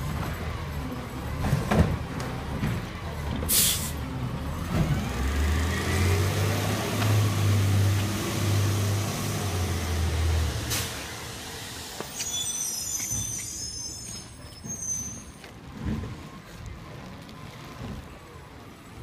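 Recycling garbage truck with its engine running and a short air-brake hiss about three and a half seconds in. The engine then revs up and holds high for about five seconds before dropping back, with a second, shorter hiss just after.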